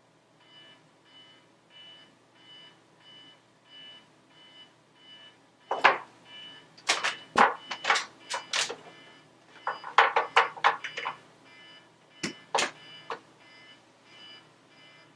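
Alarm clock beeping steadily, about one and a half beeps a second. Through the middle stretch, a run of loud, sharp knocks and thumps, like objects being bumped and fumbled, sounds over the beeping.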